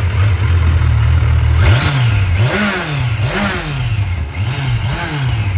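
Kawasaki Versys 1000 SE's inline-four engine idling, then revved in a series of quick throttle blips from about a second and a half in, each rising and falling in pitch, and settling back toward idle near the end.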